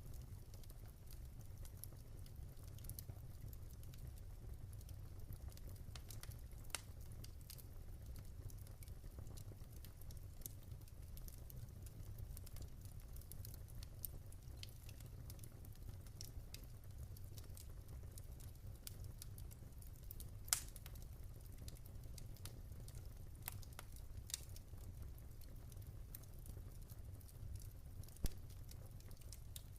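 Wood fire burning in a fireplace: a steady low rumble of flames with irregular sharp crackles and pops, two of them louder, about two-thirds of the way in and near the end.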